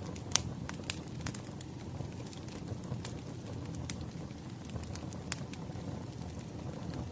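Wood fire crackling: a steady low rumble with sharp pops at irregular intervals, the loudest about a third of a second in.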